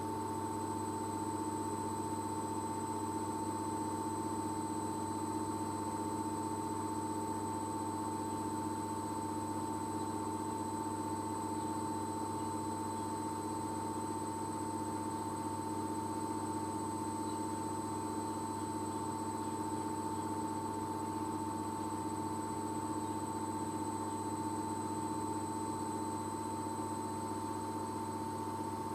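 Arçelik front-loading washing machine in its spin cycle, running at a steady high drum speed with a constant motor whine over a low hum.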